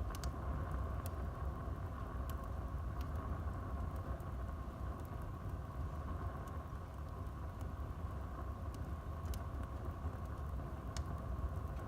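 Wood fire burning in a fireplace: a steady low rumble with sharp crackles every second or so.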